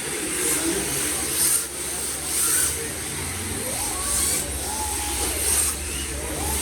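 RC drift cars sliding around the track. Their plastic drift tyres hiss in short bursts about once a second, and the faint electric motor whine rises and falls with the throttle, over a steady low hum.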